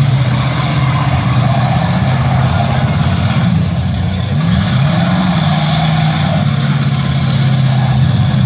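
Demolition derby car engines running loud and steady, with one engine revving up and back down about halfway through.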